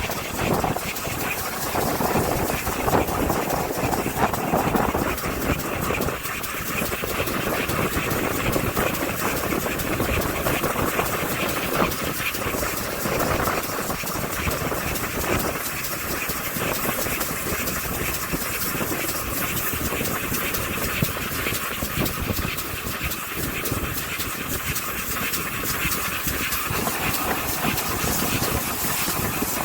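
Steam-hauled heritage train coach running along the line, heard from on board: a steady rattling run of wheels on track.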